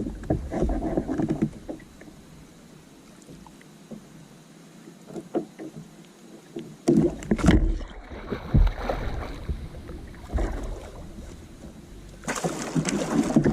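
Irregular knocks and thumps on a kayak as a hooked blue catfish is fought beside it, with a louder rush of noise near the end.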